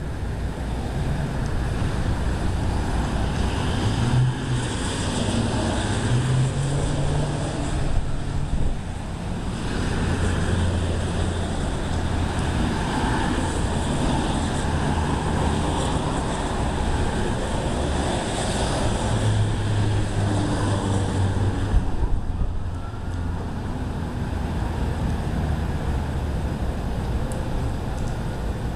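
Storm wind gusting over the microphone, a rushing rumble that grows stronger a few seconds in and eases near the end.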